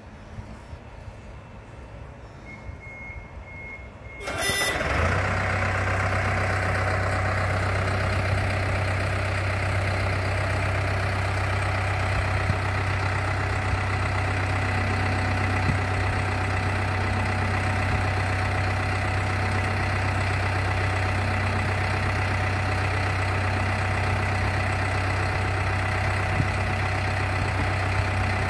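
A few short electronic beeps, then an engine starts about four seconds in and runs steadily at idle with a deep, even hum.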